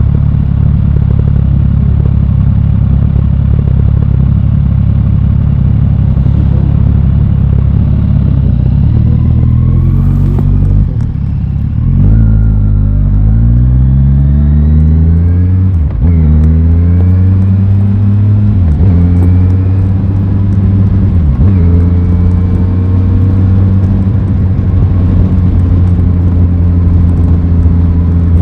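Aprilia Tuono 660's parallel-twin engine pulling at a steady speed, then easing off. It then accelerates through the gears, its pitch climbing and dropping back at three upshifts, before settling into a steady cruise.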